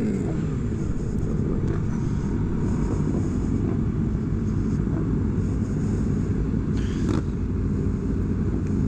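Sport motorcycle engines running steadily while riding in a group, with an engine note falling just at the start.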